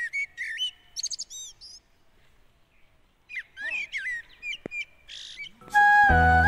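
Small birds chirping and whistling: a quick run of chirps in the first two seconds, a short lull, then more chirps. Flute-led music comes in near the end.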